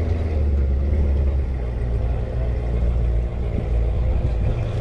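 Car engine idling steadily close by, a strong low note with no revving.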